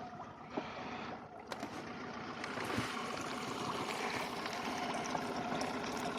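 Honda 9.9 four-stroke outboard motor running steadily, mixed with water rushing and splashing along the boat's hull; it grows a little louder after about two seconds.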